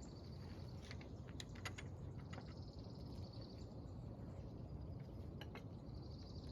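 A scatter of light clicks and taps from handling tools and parts, loosest in the first couple of seconds with a few more near the end, over a faint high insect trill that comes and goes and a steady low background rumble.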